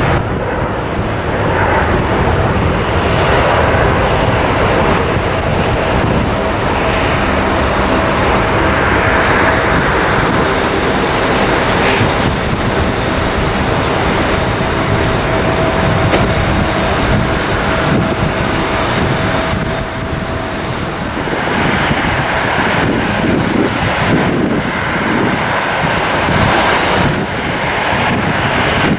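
Airliner engines running with a faint steady whine, under heavy wind buffeting on the microphone.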